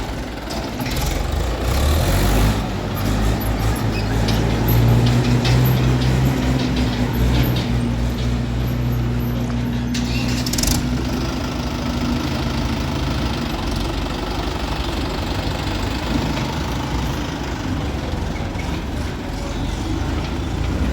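Heavy diesel engine running and working under load, louder and busier for roughly the first half, with two short bursts of noise about two and ten seconds in.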